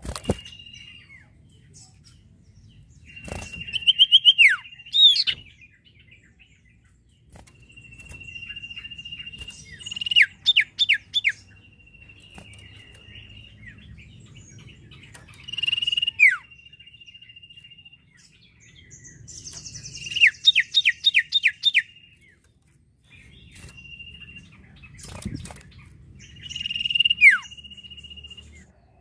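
A small songbird singing in repeated phrases. Each phrase is a steady high whistled note held for a second or two, followed by a quick run of five or six sharp down-slurred notes, with short pauses between about five such phrases.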